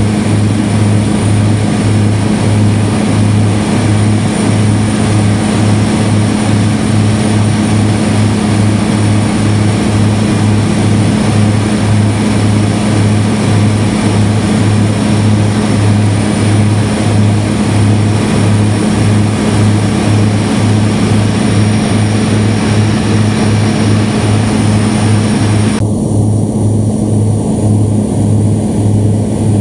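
Propeller aircraft engine droning steadily in flight, a deep pulsing hum with a wide rushing hiss over it. Near the end the higher part of the hiss drops away while the hum carries on.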